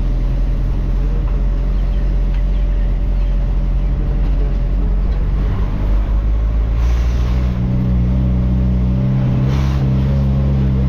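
Truck engine running steadily on the road, its low hum growing louder and fuller about seven seconds in, with two short hisses partway through.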